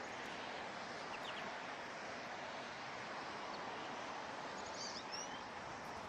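Steady outdoor background rush with a few short, high bird chirps about a second in and a quick cluster of chirps near the end, from songbirds at a feeder.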